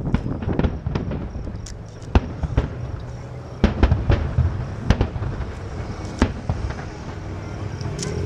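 Aerial fireworks display: a run of sharp shell bursts and booms at irregular intervals, a few seconds apart to several close together, over a continuous rumble of the show.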